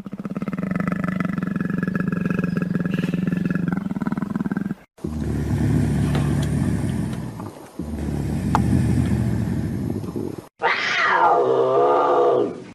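Animal calls cut back to back. First comes a long, steady, buzzing call, then two low rumbling growls, and near the end a short cry that falls steeply in pitch.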